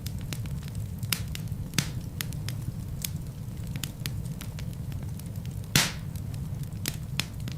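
Wood fire burning in a fireplace: many sharp crackles and snaps over a low, steady rush of flame, with one louder pop about three-quarters of the way through.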